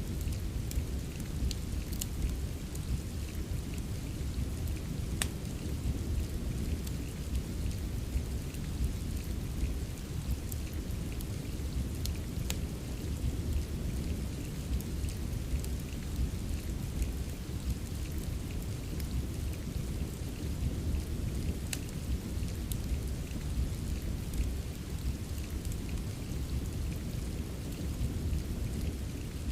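Steady soft rain mixed with a wood fire in a fireplace: an even rain hiss over a deep, constant low rumble, with scattered sharp crackles and pops from the fire every second or so.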